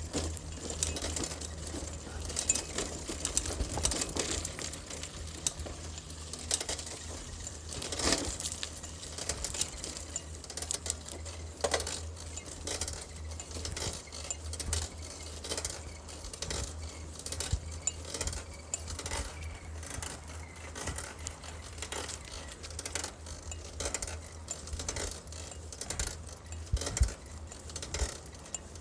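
Irregular clicking and rattling over a low rumble, picked up by a phone riding in a cyclist's pocket as the bicycle is ridden.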